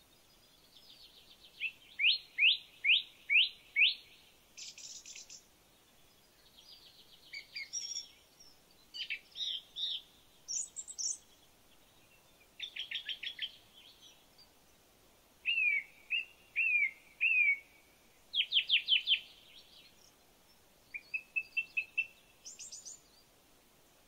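Songbird singing in short, varied phrases, each a quick run of repeated clear or buzzy notes, with brief pauses between phrases.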